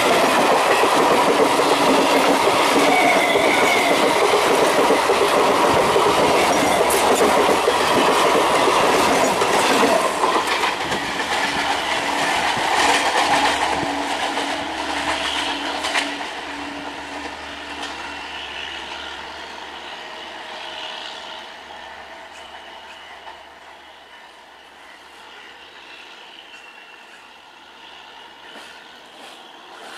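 Suburban EMU local train running past close by on the rails, loud for about ten seconds, then fading away gradually as the train moves off.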